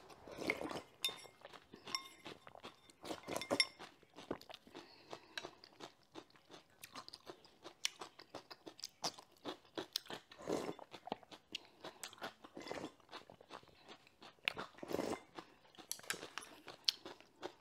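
A person chewing food close to the microphone, with crisp crunches and small wet mouth clicks. A few louder bursts stand out, one a little past halfway and another about three-quarters of the way in.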